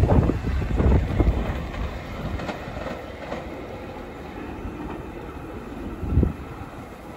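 SEPTA Regional Rail Silverliner electric multiple-unit train pulling away, its wheels knocking over rail joints, the rumble fading as it recedes. One louder single knock comes about six seconds in.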